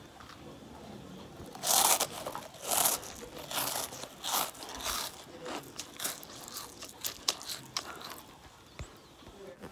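Crunching and chewing of yogurt puffs, a dissolvable baby-food snack: about five loud crunches a little under a second apart in the first half, then softer chewing crackles that fade out near the end.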